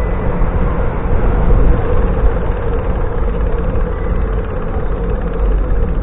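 Wind rushing over the microphone of a camera riding along on a moving bicycle, a steady loud rumble mixed with road and tyre noise and a constant hum.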